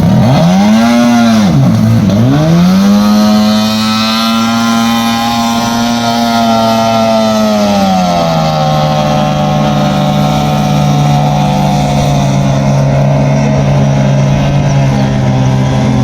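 Racing powerboat engine warming up before a race: it is blipped up and down twice, then held at high revs for several seconds, then drops back to a steady lower speed.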